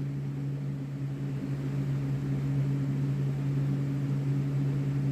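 Steady low background hum from a running machine such as a fan or appliance, unchanging, with no speech over it.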